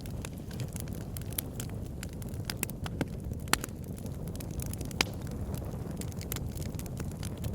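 Fire in a fireplace crackling: a steady low rumble of flames with frequent small sharp pops. Two pops, about three and a half and five seconds in, stand out as louder.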